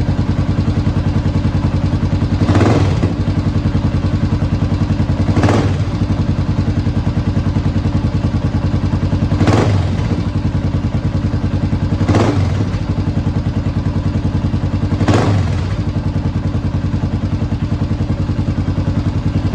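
Honda XR650R single-cylinder four-stroke engine running through a DG V2 exhaust, idling with five short throttle blips about every three seconds. The owner finds the exhaust a little too loud.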